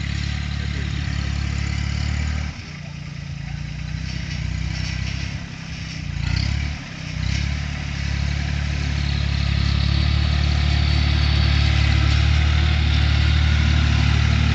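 Kubota B2530 compact tractor's three-cylinder diesel engine running while working the ground. It dips briefly a few times in the first half, then holds a steady, louder note.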